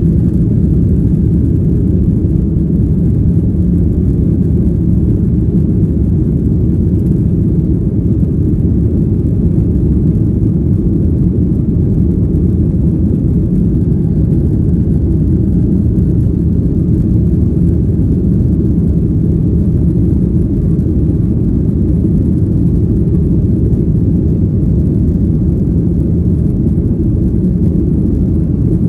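Steady low rumble of airliner cabin noise: jet engines and rushing air heard from inside the passenger cabin, loud and unchanging.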